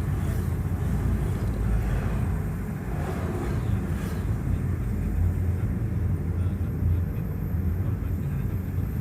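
Steady low rumble of a vehicle on the move: engine and road noise, with no single event standing out.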